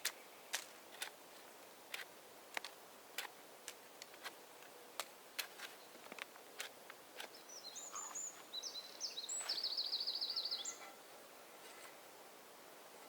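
Irregular sharp clicks and pops, roughly one or two a second, over quiet forest ambience. A small songbird sings about two-thirds of the way through, short high chirps followed by a fast trill lasting about a second.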